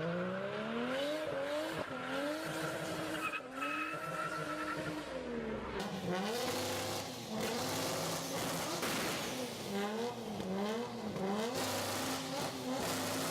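Nissan Skyline GT-R R34 engine revving up and down repeatedly, with quick rises and drops in pitch in the second half.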